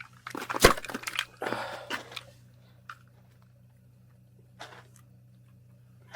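A sharp knock about half a second in, followed by a second or two of crunching and scraping handling noise, then a short rustle later on, over a low steady hum.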